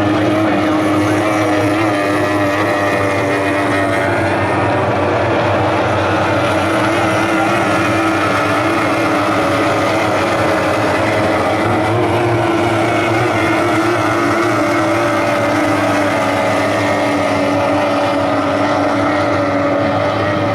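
Several two-stroke racing outboard engines on stock outboard hydroplanes running flat out, a loud steady drone of overlapping engine tones that drift up and down slightly as the boats race.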